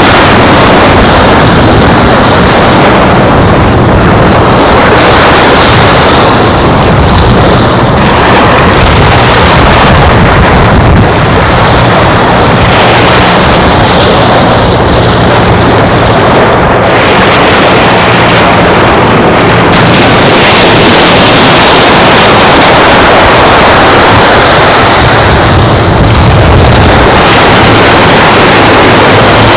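Wind blowing hard across the microphone over waves on the beach: a loud, steady rush with a low steady hum underneath.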